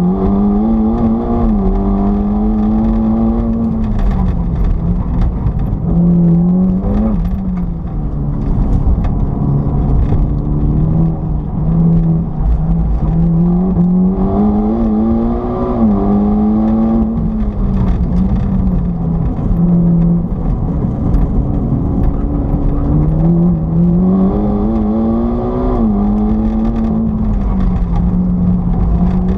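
Car engine heard from inside the cabin, its pitch climbing and then dropping back several times as the car is driven hard, over steady road noise.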